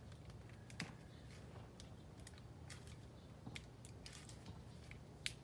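Faint scattered clicks and rustles of sticks and plant material being handled while leaves are fastened to a stick handle, with a sharper click about a second in and another just before the end.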